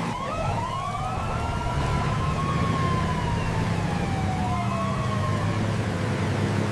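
A siren wailing, its pitch rising and falling slowly, over a steady low engine-like rumble.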